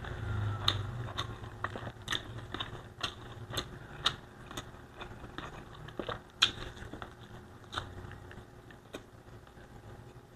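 Close-miked eating: wet chewing and lip smacks, with irregular sharp mouth clicks about two a second, as a person eats spicy coconut-milk pork with rice.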